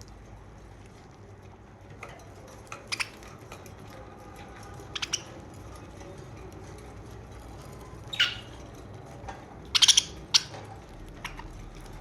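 Pet budgerigars giving short, sharp chirps in sparse bursts a few seconds apart, the loudest cluster of several calls about two-thirds of the way in, over faint steady background noise.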